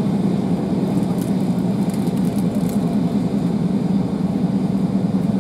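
Steady rumble of a railway passenger coach running at speed on the track, heard from inside the carriage, with a few faint ticks.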